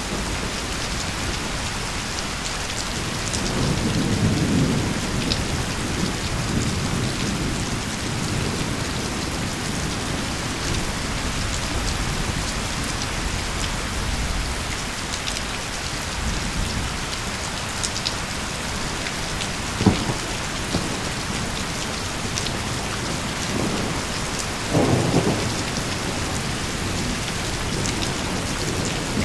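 Steady rain falling, with thunder rumbling low a few seconds in, a sharp crack about two-thirds of the way through, and a louder thunderclap shortly after.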